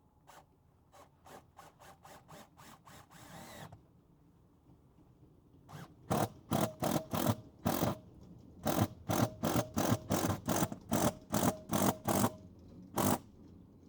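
A screw being driven into wood in short, rasping strokes, about two to three a second, faint at first and louder from about six seconds in.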